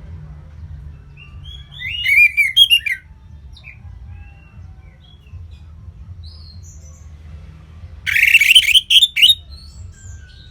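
Songbird singing two short, loud, warbled phrases, one about two seconds in and another about eight seconds in, with faint calls of other birds in between over a low steady hum.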